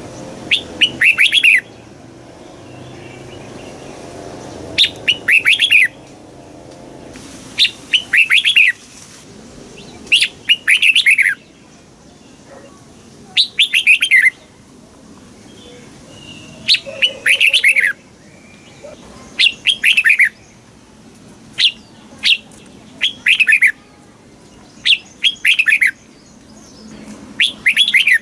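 Red-whiskered bulbul singing: short phrases of quick, falling whistled notes, about one every two to three seconds, in the southern Thai song style that keepers play to teach young caged bulbuls or to excite their birds.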